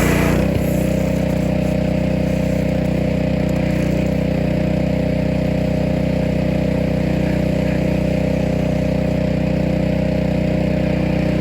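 A motor running steadily at a constant speed, its pitch unchanging, with a slight drop in level about half a second in.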